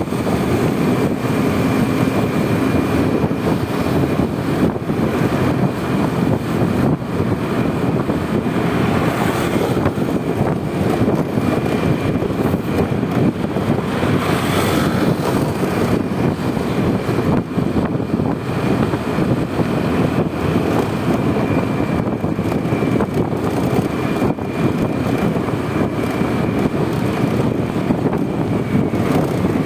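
Steady riding noise from a Honda Vario 125 scooter under way: its single-cylinder engine running, mixed with wind rushing over the microphone, and a faint steady high whine.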